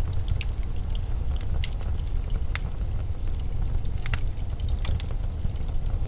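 Blizzard wind making a steady deep rumble, with scattered sharp crackling clicks over it.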